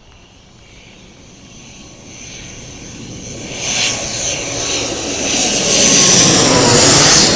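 Mandarin Airlines ATR 72-600's twin turboprop engines and propellers on landing approach, passing close. The drone grows steadily louder, peaks near the end, and its pitch drops slightly as the aircraft goes by.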